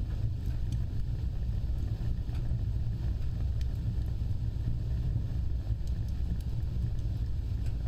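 An open fire burning with a steady low rumble, with faint small crackles scattered through it.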